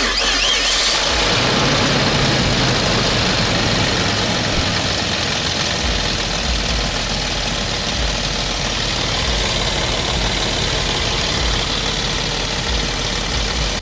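Car engine idling steadily, filmed up close over the open engine bay, a loud even rushing noise over a low hum.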